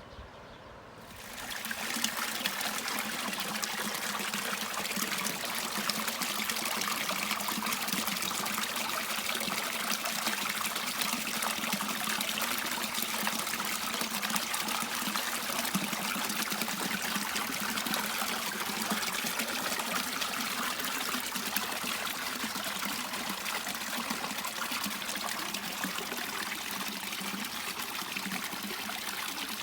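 River water running and trickling in a steady rush, which swells up during the first couple of seconds and then holds even.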